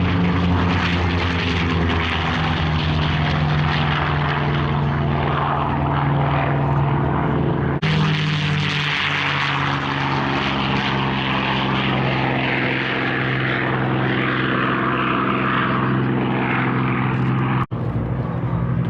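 Piston engines of World War II fighter aircraft running with a steady, deep drone. Their pitch holds almost constant, and the sound drops out briefly twice: about eight seconds in and near the end.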